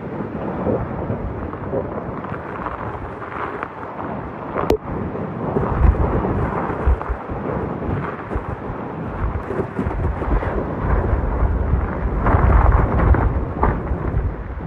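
Typhoon wind and heavy rain, the gusts buffeting the microphone into a low rumble that swells and eases, loudest near the end.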